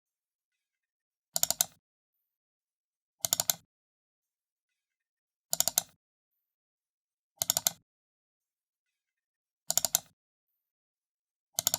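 A computer mouse button double-clicked, close up: each double-click a quick cluster of sharp clicks, repeated about six times at roughly two-second intervals with silence between.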